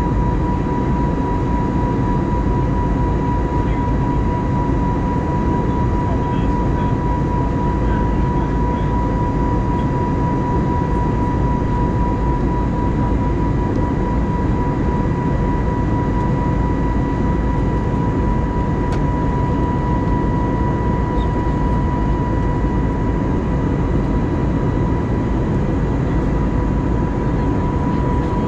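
Airbus A320neo cabin noise in flight: a steady rush of airflow and engine noise with a constant high-pitched tone running through it, heard from inside the cabin.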